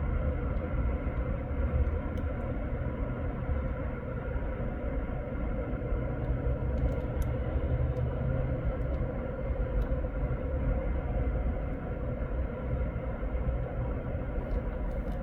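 Steady low rumble of road traffic, with a constant faint drone running through it.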